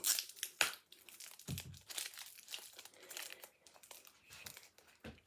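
Sellotape crinkling and rustling as it is handled and pressed around a ball on a stick, with irregular sharp crackles.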